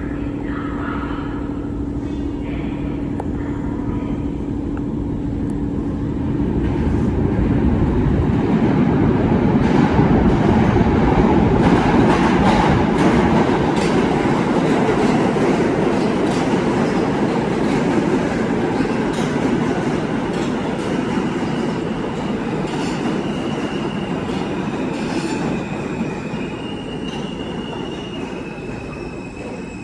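New York City Subway L train running through the station. The train noise swells to a peak about ten seconds in and slowly fades, with wheel squeal in the later part.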